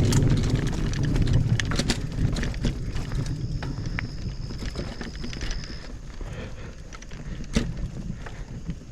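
Low rumble of thunder, loudest in the first couple of seconds and slowly fading, under the clicks and rattles of a mountain bike rolling over a rocky trail.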